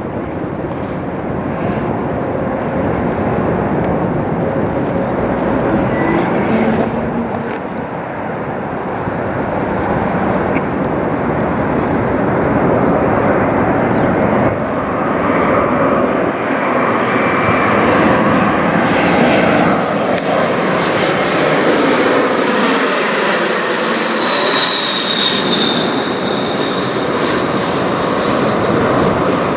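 Embraer E175 regional jet's twin turbofan engines passing low overhead: a steady jet roar that builds up, with a high whine that slides down in pitch about three-quarters of the way through as the plane goes by.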